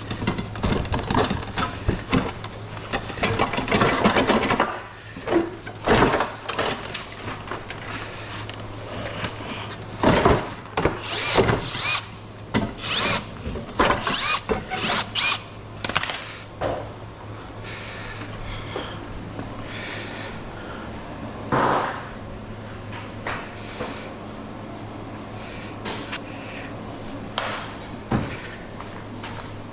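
Hand tools working on scrap metal: irregular clanks, knocks and rattles of metal parts, busiest in the first half and sparser later, over a steady low hum.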